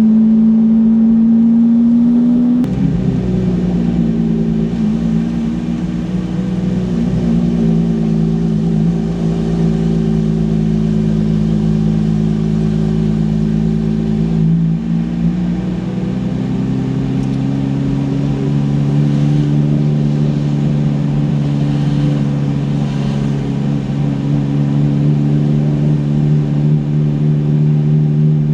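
Car engine running at a steady speed, a pitched hum that drops about two and a half seconds in and rises again around the middle.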